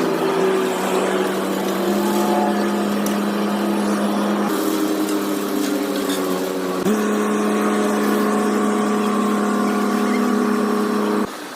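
Excavator engine running at a steady pitch that steps up and down a few times, cutting off abruptly near the end.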